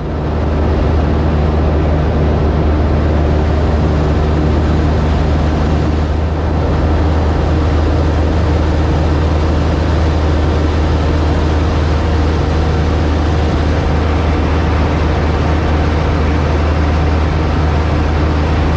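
Cub light aircraft's piston engine and propeller running steadily in flight, a constant low hum that does not change in pitch.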